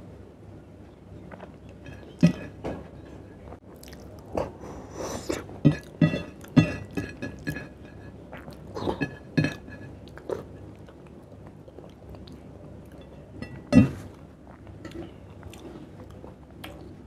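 Close-miked eating sounds of chicken curry and rice being eaten by hand: wet chewing and mouth clicks in irregular clusters, with one louder knock late on.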